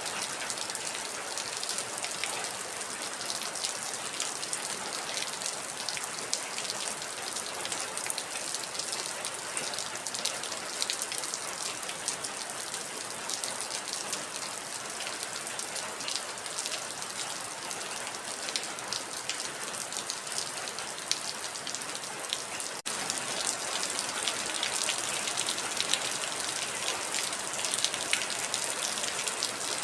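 Heavy rain falling steadily: a dense hiss with many sharp individual drop hits. About three-quarters of the way through there is a momentary break, after which the rain is slightly louder.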